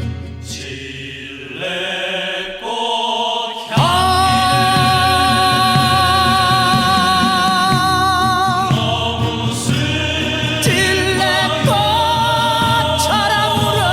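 Recorded Korean popular song: after a short quieter instrumental passage, a male singer's voice comes in about four seconds in and holds long, wavering notes over the instrumental accompaniment.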